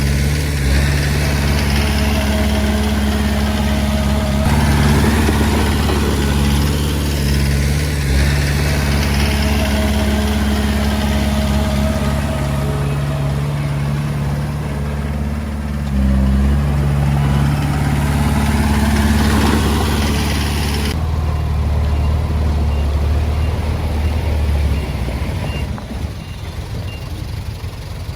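Komatsu D20A bulldozer's diesel engine running under changing load, its note shifting up and down several times and falling off a few seconds before the end. A faint repeated beep sounds over it in the later part.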